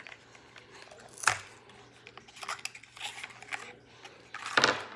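Snack packaging being handled and opened: scattered rustling and clicking, with two louder crinkling bursts, one about a second in and one near the end.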